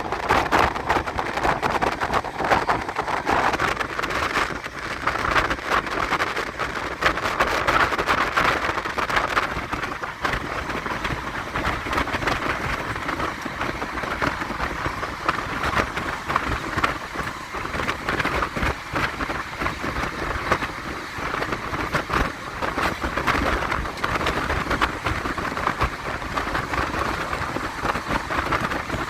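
Amrit Bharat Express train running at speed, heard from inside a coach: a steady rushing noise of wheels on the rails, with many small rattles and clicks running through it.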